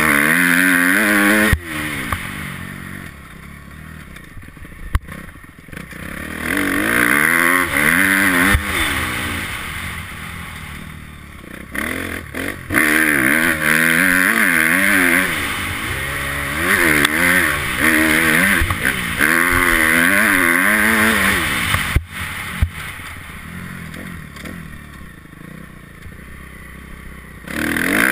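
Motocross bike engine, recorded by a camera mounted on the bike, revving up and down repeatedly as it accelerates and changes gear. Several quieter stretches come off the throttle, and a few sharp knocks are heard, near the start, around five seconds in and again past twenty seconds.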